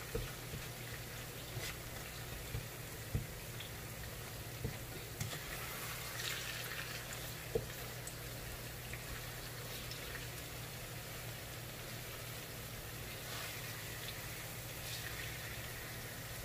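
Bananas frying in a shallow layer of oil in a metal wok: a soft, steady sizzle with a low hum underneath. A few light clicks come from a wooden stick tapping the wok as the bananas are turned.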